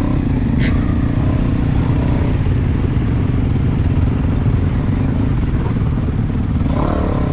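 Motocross bike engine running steadily at a near-constant speed, without revving.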